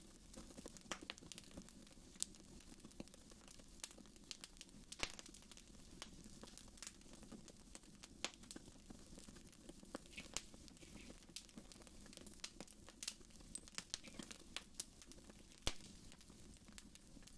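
Wood fire crackling in a fireplace: irregular sharp pops and snaps, a few louder ones, the loudest near the end, over a faint steady low hum.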